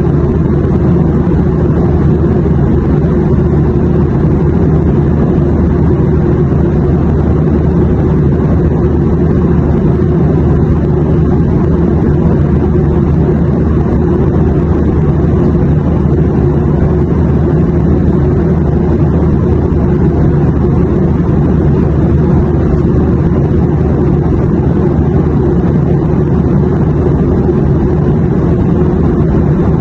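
Airliner cabin in flight: a steady, deep, even drone of engine and airflow noise with no changes.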